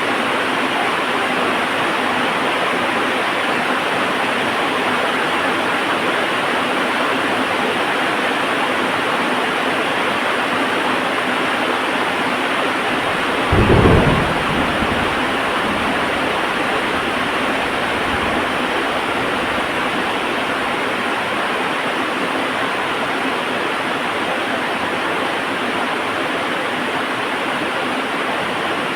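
Heavy rain falling steadily. About halfway through, a sudden crack of thunder breaks in and its low rumble dies away over several seconds.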